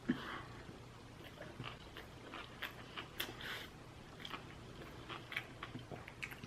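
A person chewing sushi close to the microphone: soft wet mouth clicks and smacks scattered irregularly, with one sharper knock just at the start.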